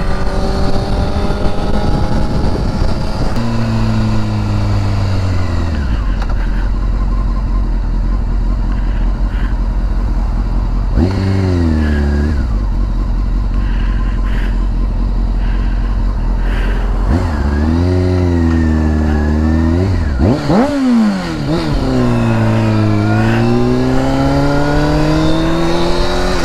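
Motorcycle engine running on the highway over steady wind rush. The engine pitch climbs, drops sharply about three and a half seconds in, then dips and recovers several times with throttle changes, and climbs again near the end.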